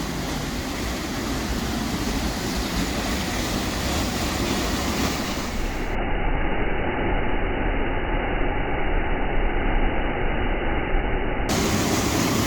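Waterfall: a steady, heavy rush of falling water.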